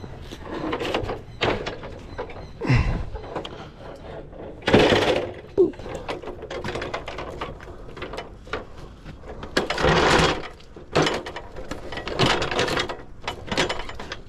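Hands-on handling noise while a guy rope is tied off to a mount: irregular knocks, clicks and rustling, with louder scraping rushes about five and ten seconds in.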